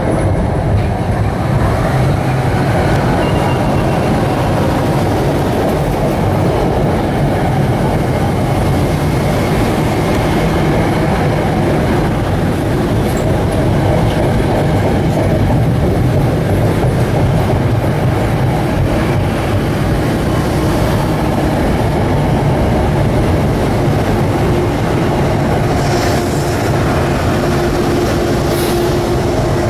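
A train running past, a loud steady rumble of wheels on rails throughout, with a steady tone coming in over the last few seconds.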